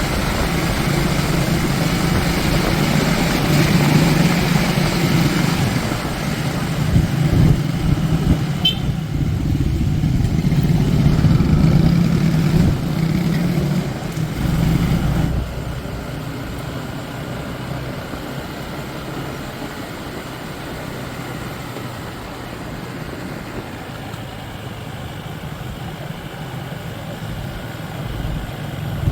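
Motor vehicle engine running with road noise while travelling. About halfway through, the engine's steady hum falls away and the noise gets quieter.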